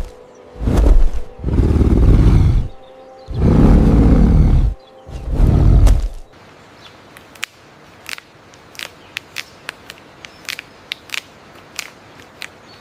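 A large animal's deep roars, four loud ones in the first six seconds. After them come short, sharp clicks or chirps, many in a row and much quieter.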